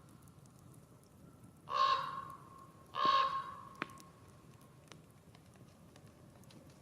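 A crow-like bird giving two harsh caws about a second apart, over faint crackling from a wood campfire, with one sharp pop from the fire near the end of the second caw.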